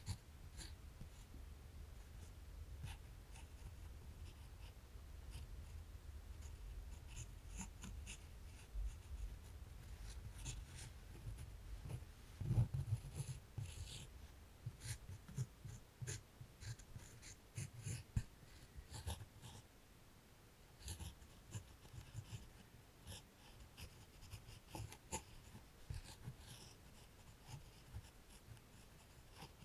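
Drawing on paper: quiet scratching strokes of a drawing tool, short and irregular, with a soft low thump about twelve seconds in.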